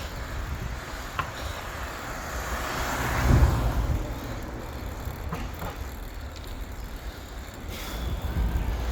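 A motor vehicle passes on the road. Its noise swells to a peak about three and a half seconds in and then fades, over a steady low rumble.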